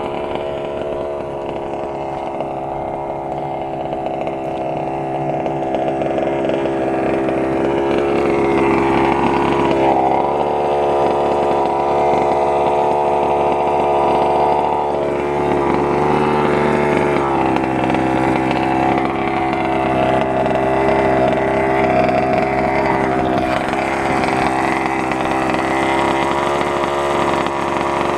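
Small two-stroke gasoline engine of a large-scale FG 2WD stadium truck running steadily, its pitch wavering only slightly.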